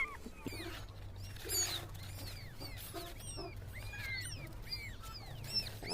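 Several young kittens mewing: many short, high-pitched cries overlapping one another, over a low steady hum that starts about half a second in.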